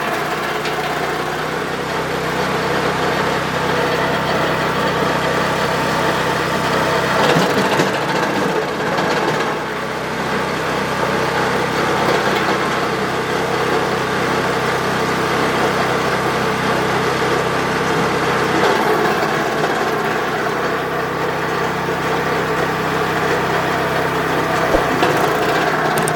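Wood chipper running steadily under engine power, with a few sharp cracks of wood being cut.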